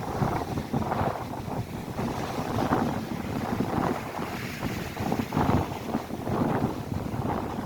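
Lake waves crashing in a strong, gusty wind, with wind buffeting the microphone. The noise rises and falls in irregular surges every second or so.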